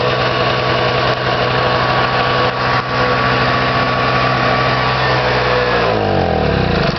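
Small 1,000-watt two-stroke generator engine running steadily, then slowing near the end, its pitch falling as it winds down.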